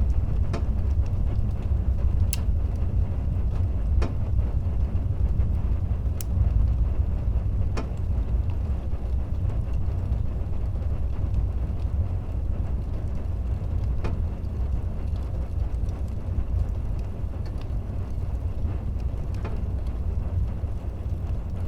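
Fire burning in a fireplace: a steady low rumble of the flames, with sharp wood crackles popping now and then, about six in all, the strongest around six seconds in.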